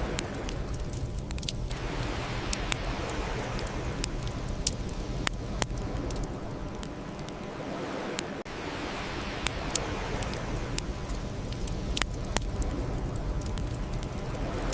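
Bonfire crackling: sharp pops and snaps come at irregular moments over a steady low rumble and hiss of burning.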